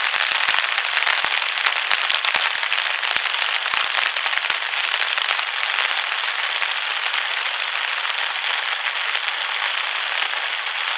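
Heavy rain falling steadily, a dense hiss, with sharp ticks of big drops striking close by, thickest in the first four or five seconds.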